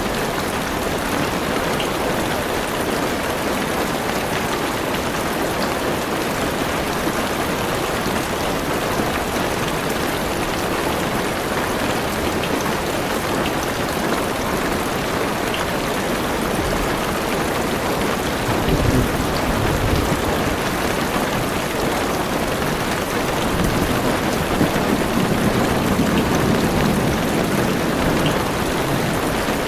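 Heavy rain drumming steadily on a car's roof and windows, heard from inside the car. Low thunder rumbles swell up about two-thirds of the way in and again near the end.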